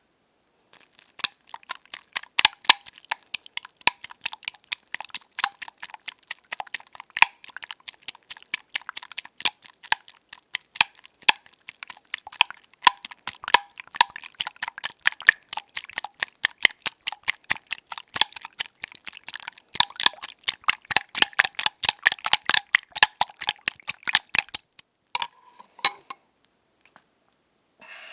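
Eggs being beaten in a bowl: a fast, steady run of clicking strokes of the beater against the bowl that goes on for over twenty seconds and stops near the end.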